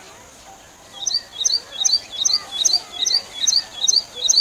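Common tailorbird calling: a loud, rapid series of sharp, high two-part chirps, about two and a half a second, starting about a second in.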